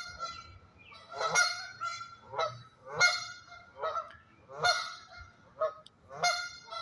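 Geese honking: loud honks repeating about every one and a half seconds, with softer calls in between.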